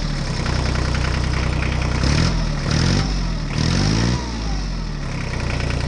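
Tractor engine idling steadily, then revved up and down in a few quick blips about two seconds in, before settling back to idle.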